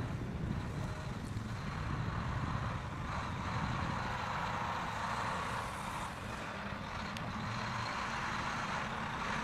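Heavy machine's engine running steadily under load, a low rumble with a rushing noise above it that grows louder in the middle.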